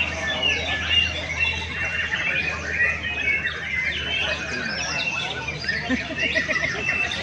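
Many caged songbirds singing at once, a dense tangle of overlapping chirps, trills and whistles.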